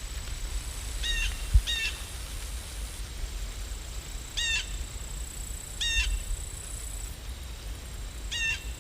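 A crow cawing five times, short harsh calls spaced one to two and a half seconds apart, over a steady low rumble. One dull thump about a second and a half in.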